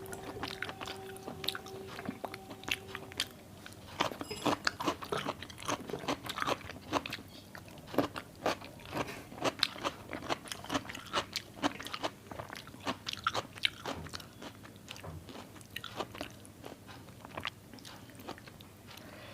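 Close-miked chewing and mouth sounds of a person eating: irregular wet clicks and smacks, growing denser and louder about four seconds in.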